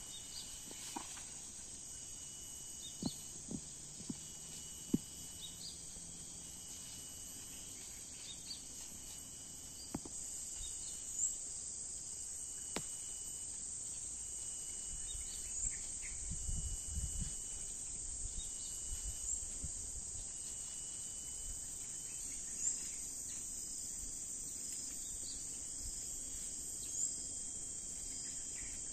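A steady, high-pitched chorus of insects, stepping up in loudness about ten seconds in, with a few scattered clicks and faint chirps over it.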